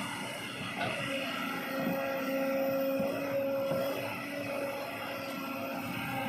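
Kobelco SK200 excavator's diesel engine running steadily with a steady whine, getting a little louder for a few seconds about a second in.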